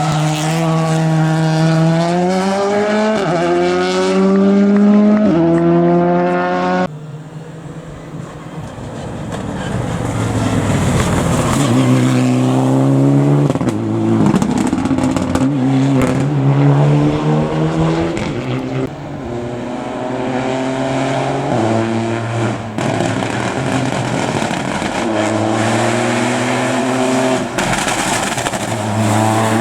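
Rally cars at full throttle: an engine revving up through the gears with quick upshifts, then, after an abrupt cut, another car approaching and accelerating hard through its gears with tyre noise.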